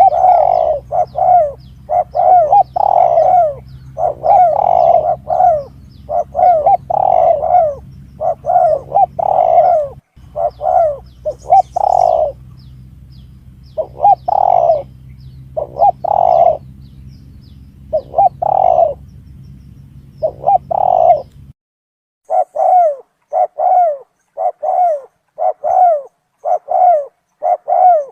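Spotted doves cooing in quick, repeated phrases: a recorded tekukur call played as a hunting lure. A low hum under the calls cuts out about three quarters of the way through.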